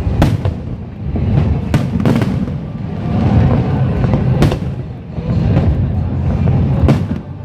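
Fireworks exploding overhead: repeated sharp bangs over a continuous low rumble, with music playing underneath.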